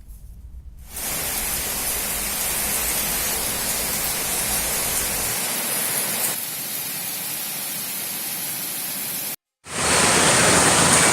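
Steady hiss of heavy rain falling. The sound changes in tone twice midway, cuts out briefly near the end, then comes back louder.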